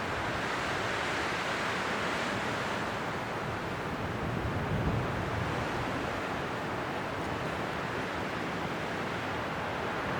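Steady winter wind blowing, rising and falling in gusts, with a deeper gust about halfway through.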